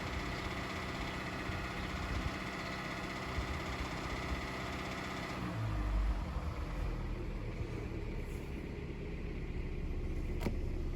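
2011 Kia Forte engine idling steadily. About halfway through, its steady note slides down in pitch and gives way to a low rumble. A single sharp click comes near the end.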